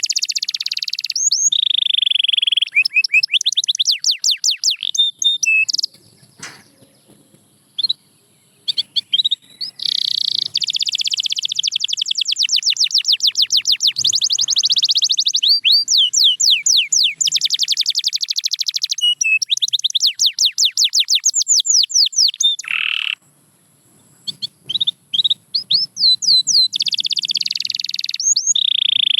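Canary singing: fast trills of rapidly repeated sweeping notes and dense buzzy rolls, broken by two short pauses.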